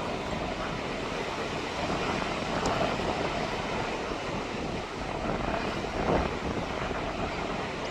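Mediterranean sea waves washing onto a beach as a steady rush, with some wind noise.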